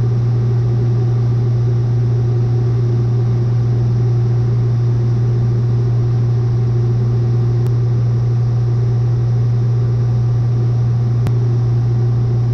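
Steady drone of a Cessna 182's single piston engine and propeller in flight, a constant loud low hum that does not change in pitch or level.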